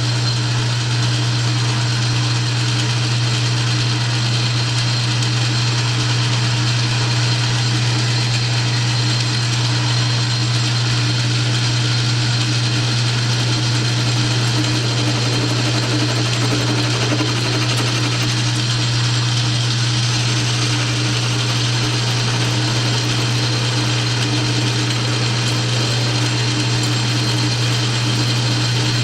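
South Bend metal lathe running steadily with a constant low hum.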